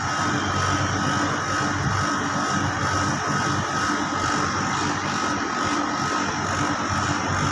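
Air-conditioning compressor running with an abnormal noise: a steady hum with a thin, high, unchanging whine over it.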